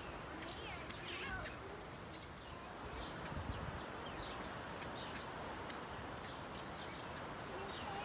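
Small aviary birds chirping: three short, very high twittering phrases, spread through the stretch, with scattered sharp chip notes in between, over a steady background hiss.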